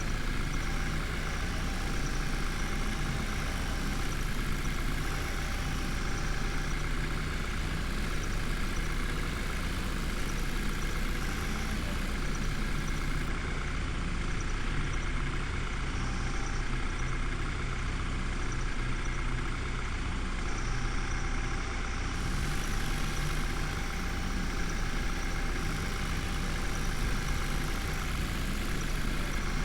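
Heavy diesel engine running steadily at a constant speed, with no revving.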